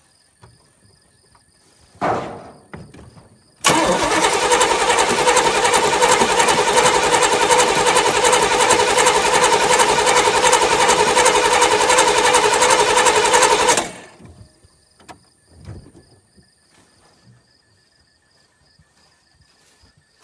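1981 Oldsmobile 307 V8 being cranked by its starter on a cold start. There is a short burst about two seconds in, then about ten seconds of continuous cranking that stops abruptly without the engine settling into a run. It will not fire, with the newly fitted Edelbrock carburettor not yet hooked up the way it should be.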